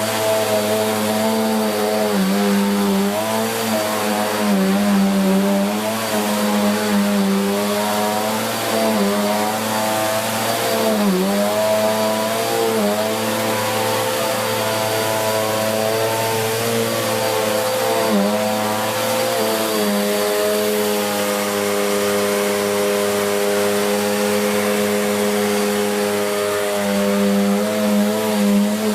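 Bissell Cleanview Plus 76P4-E 1900 W bagless upright vacuum cleaner running on carpet. Its motor hum wavers and dips briefly in pitch, most deeply about eleven seconds in, and holds steadier in the last third.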